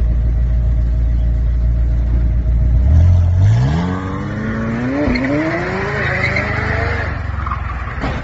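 A car engine running at a low, steady drone, then from about three seconds in revving up under hard acceleration. Its pitch climbs steadily with a brief dip about five seconds in, and a rushing noise builds with it before both fade near the end.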